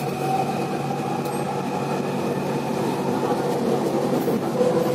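Malaysian LRT light-rail train running along elevated track, heard from inside the car: a steady rolling noise with a low hum and a few steady whining tones.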